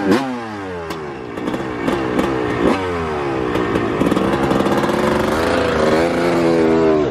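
Dirt bike engine revving, its pitch repeatedly falling off and climbing again with the throttle.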